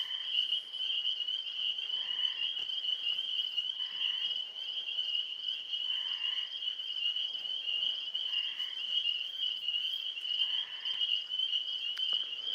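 Night chorus of frogs: a steady high-pitched trilling chorus, with a lower frog call repeating about every two seconds.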